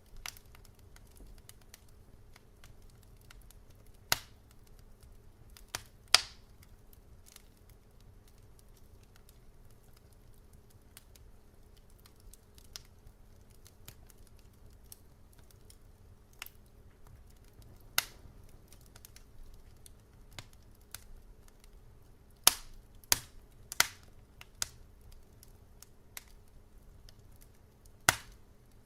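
Wood fire crackling in a fireplace: irregular sharp pops and snaps over a low steady hiss of burning, with a cluster of louder pops a little past twenty seconds in.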